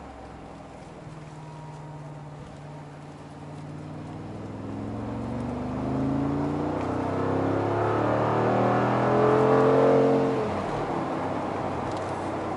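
Mercedes-AMG G63's twin-turbo V8, heard from inside the cabin, pulling hard under acceleration. The engine note climbs in pitch and loudness for several seconds, then falls away suddenly about ten seconds in and settles to a steady run.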